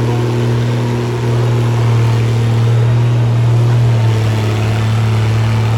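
Antique tractor engine running steadily at a constant pitch, a loud, unchanging drone typical of a governed engine held at full throttle under load.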